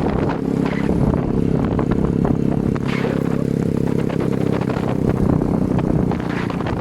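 Motorcycle engine running at a steady speed while riding, with clattering rattles over the engine note.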